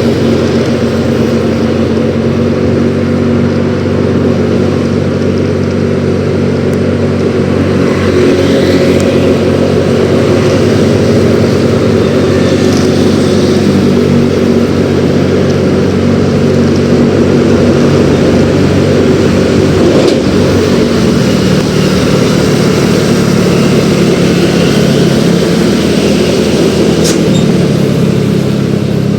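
Yamaha X-Ride 113cc scooter's single-cylinder engine running steadily while riding, under constant wind and road noise; the engine's pitch shifts a little about two-thirds of the way through.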